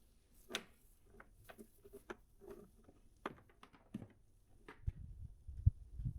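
Scattered light knocks and clicks of objects being handled in a workshop, followed by a run of low thumps in the last second or so.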